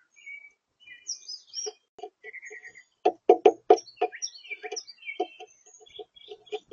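Small songbirds at a feeder chirping and calling in short high notes, over a run of sharp, close taps and knocks that are loudest about three to four seconds in.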